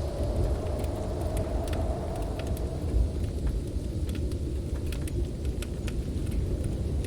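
Storm wind blowing hard in a steady low rumble with a faint howl, while a wood fire crackles with scattered sharp pops.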